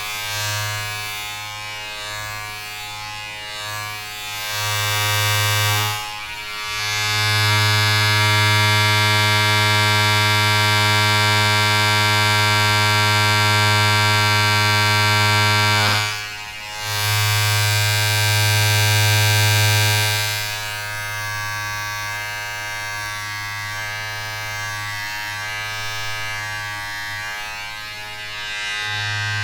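A small electric motor buzzing steadily, a low hum with many overtones. It grows louder about six seconds in, dips briefly around sixteen seconds, and settles back to a quieter level at about twenty seconds.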